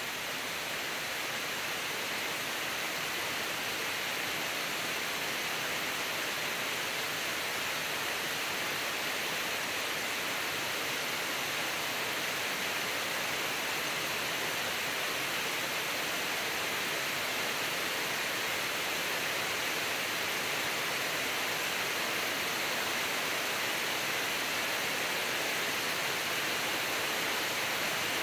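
Steady rain falling on woodland trees and a lawn: an even hiss that holds level throughout.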